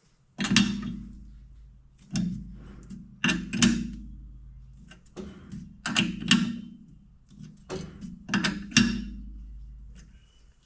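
A series of metal knocks and clanks, one every second or so, each ringing briefly as it fades: tools and parts being handled and set down at a metal-turning lathe.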